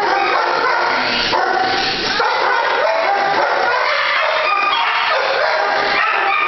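Many shelter dogs barking and yipping at once in the kennel, a loud, steady din of overlapping calls.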